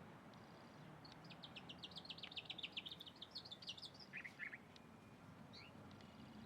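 A small songbird singing a fast trill of short, high repeated notes for about three seconds, followed by a few brief call notes. The song is faint against a low background hiss.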